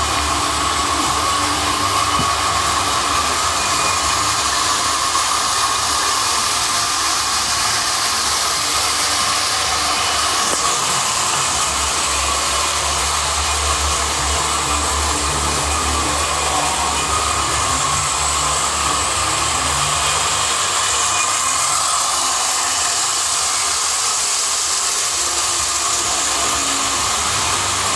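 Lionel model train running on its track, its electric motor and wheels making a steady whirring rumble. The low rumble grows heavier for several seconds midway.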